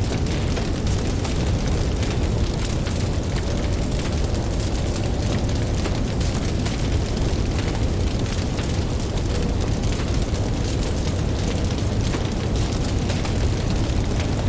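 Campfire crackling, with frequent small pops over a steady low rumble.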